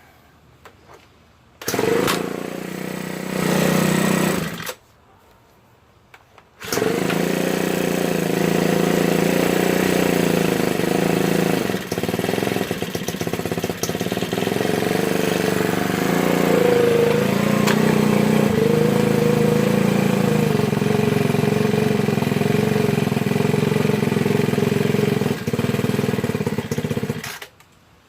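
Ryobi 4-cycle leaf blower engine catching about two seconds in, running briefly and dying, then starting again and running steadily with small wavers in pitch before cutting off near the end. This is a blower that stalls whenever it is really given gas, a fault its owner has not traced after replacing the primer bulb and fuel lines.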